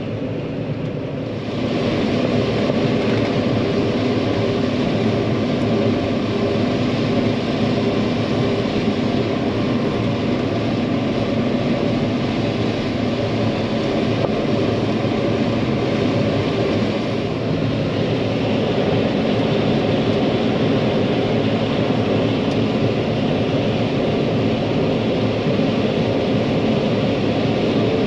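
John Deere 9500 combine running steadily while harvesting corn, a continuous machine drone with a constant hum of engine and threshing parts. It grows louder about a second and a half in, then holds steady.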